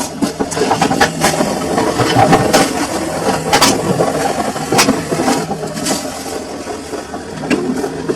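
Samsung washing machine running a wash cycle: a steady motor and drum noise with irregular clicks and knocks from the turning drum, about one a second.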